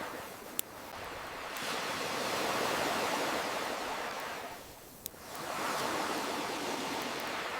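Ocean waves washing on a shore in slow swells that rise and fall, with a campfire popping sharply twice, about half a second in and about five seconds in.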